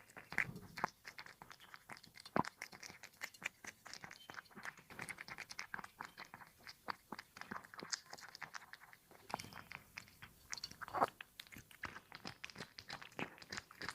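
A cat eating close to the microphone: rapid, irregular crunching and chewing.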